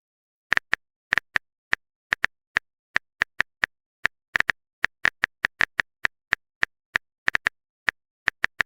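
Smartphone on-screen keyboard typing clicks, a repeated key-tap sound effect: short sharp identical clicks at an uneven pace, several a second, starting about half a second in.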